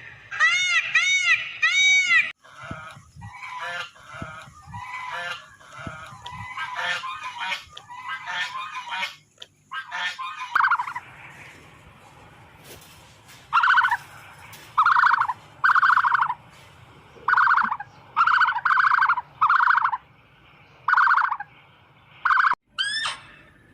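Domestic fowl calling. The first calls arch up and down in pitch, choppier calls follow, and from about halfway through come a dozen or so loud, short calls repeated at even spacing.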